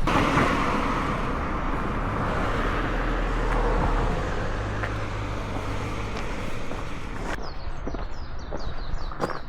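Steady road-vehicle noise with a low hum, the loudest swell at the start. It cuts off suddenly about seven seconds in, leaving a run of short, high, falling chirps and a few light steps.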